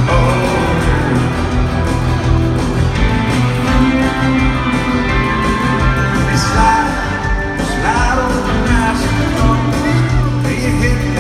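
Live country band performing a song in a large arena: a male lead vocal over guitars, bass and drums.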